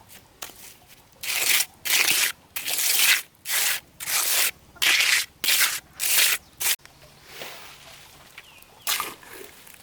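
Hand tool scraping and digging into soil in repeated strokes, about two a second, which stop abruptly about two-thirds of the way through, leaving fainter scattered scrapes.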